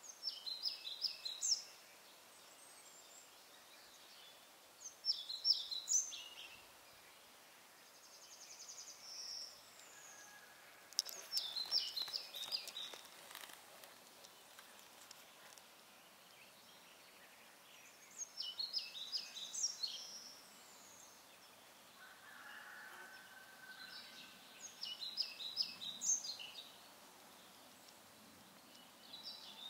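A songbird singing short, high phrases of quick notes, five times, roughly every five or six seconds, over faint outdoor background noise. A fainter, lower whistled call comes in once about two-thirds of the way through.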